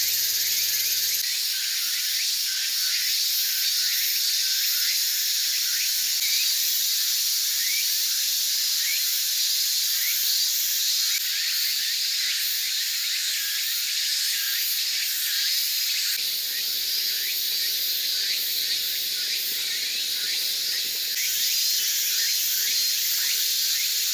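Matsutake mushrooms roasting over a small wood fire, hissing and sizzling steadily with many tiny crackles.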